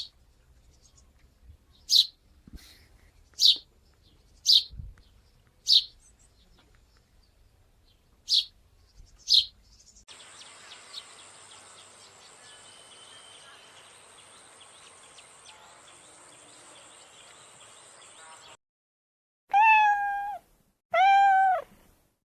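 A run of animal calls: about eight short, sharp, high-pitched yips or chirps, roughly one a second for the first ten seconds, then a faint hissing stretch, then two loud, drawn-out cat meows near the end.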